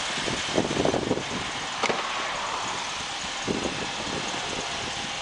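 Mitsubishi Outlander's 2.4-litre MIVEC four-cylinder engine idling steadily. A sharp click comes about two seconds in, and there are a few brief low rumbles.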